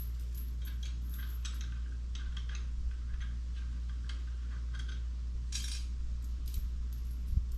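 Light metal clinks and taps of bolts and hand tools being handled during assembly of a transmission jack, scattered irregularly, with a sharper rattle about five and a half seconds in and a couple of low thumps near the end, over a steady low hum.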